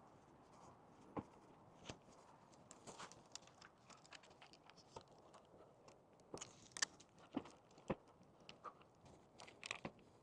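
Faint, irregular crunches and clicks of a hiker's footsteps on a trail, with a few sharper crunches in the second half.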